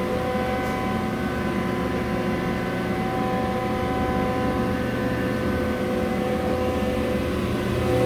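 Broan bladed exhaust fan running: a steady, very loud motor hum with several unchanging tones over a low drone, and no rattle.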